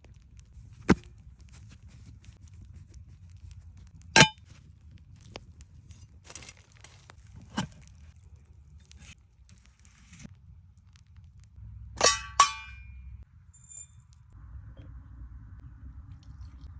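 Metal clanking: sharp metallic clangs with brief ringing, spaced a few seconds apart, with two in quick succession about twelve seconds in.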